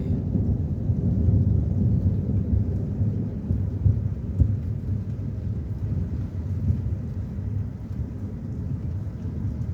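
Thunder rumbling long and low, slowly dying away over several seconds, over steady rain. It is loud.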